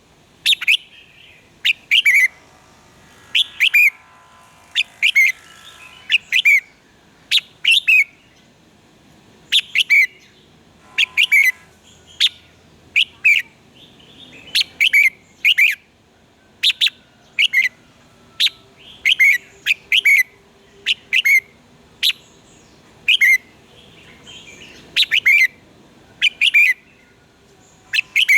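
Red-whiskered bulbul singing: clear, sharp notes that sweep steeply down in pitch, in quick groups of two or three, repeated about every second.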